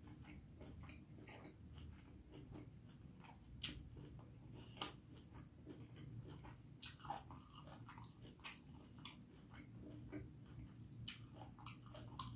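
A person chewing and biting a mouthful of beef curry and rice, with soft wet mouth clicks and smacks scattered through, the sharpest about five seconds in. A faint steady low hum lies underneath.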